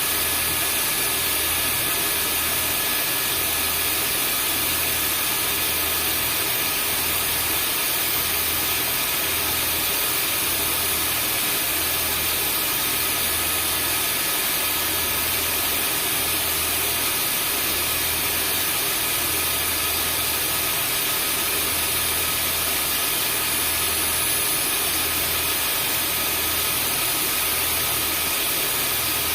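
Vacuum cleaner running steadily: an even rushing hiss with a thin, high motor whine over it and a low hum that throbs about once a second.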